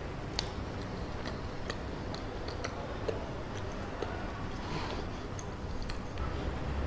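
Close-miked chewing of chocolate cacao mochi: scattered sticky mouth clicks, a few a second, over a low steady hum that grows a little near the end.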